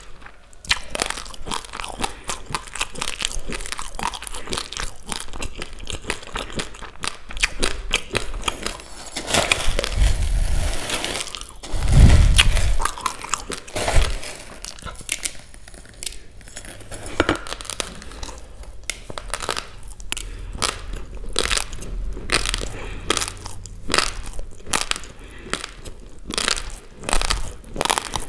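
Close-miked crunching of raw basmati rice being chewed: a dense run of small, sharp, irregular cracks of hard dry grains breaking between the teeth. About halfway through come a few louder low thumps.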